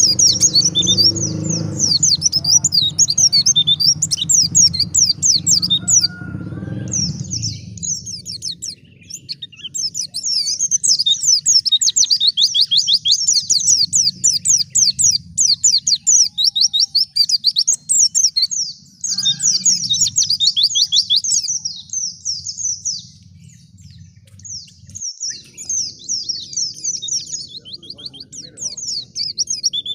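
White-eye (pleci, Zosterops) singing a rapid, high-pitched twittering song in long runs of quick notes, with brief pauses about eight seconds in and again a few seconds before the end.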